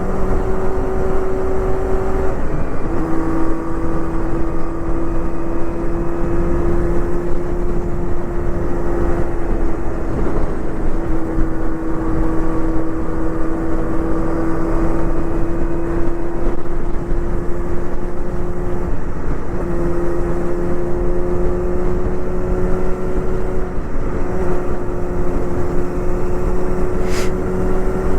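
Honda Hornet 250 inline-four with a Pretty Racing aftermarket exhaust running at high, steady revs under wind rush. Its note breaks briefly and shifts pitch three times: once a couple of seconds in, then twice in the last third.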